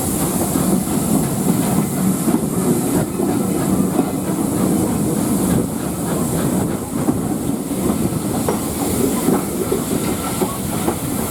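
A train running along the line: a steady rumble with wheels clattering over the rail joints and a light hiss.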